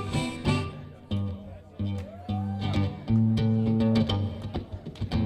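Electric bass guitar playing a solo line of separate low plucked notes, with drums keeping a steady beat behind it.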